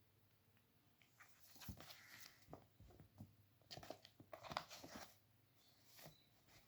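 Faint, irregular crunching and clicking, clustered from about a second in to about five seconds in, with a couple more near the end.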